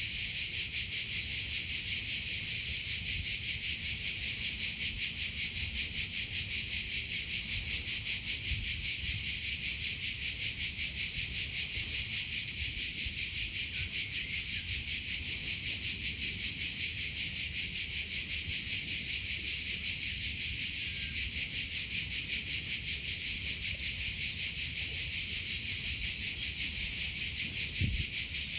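Cricket chirping in a steady, rapid, unbroken trill, high-pitched and pulsing quickly.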